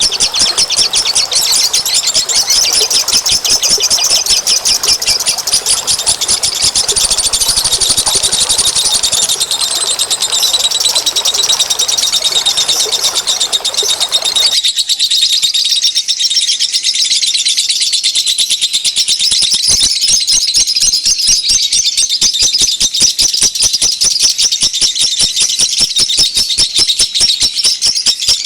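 Many small songbirds chirping and trilling rapidly and without pause in a dense, high-pitched chorus: a bird-lure recording. About halfway through, the low background noise cuts out abruptly and the chirping carries on.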